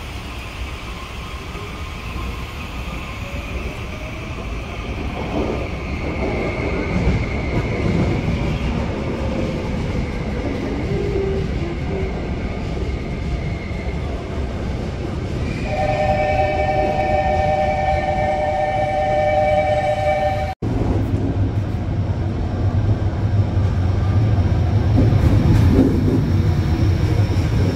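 Trains running through a station platform. About halfway through, a two-note train horn sounds steadily for about five seconds. After a cut, an electric locomotive passes close by with a steady deep hum.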